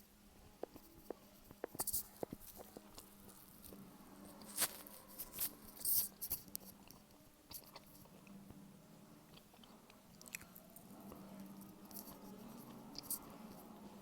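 Close-miked chewing and biting of a Pepperette smoked meat snack stick: irregular mouth clicks and small crackles, loudest about four and a half to six seconds in.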